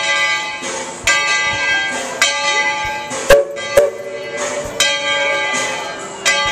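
A bell struck over and over, about once a second and a little unevenly, each stroke ringing on with several overtones before the next.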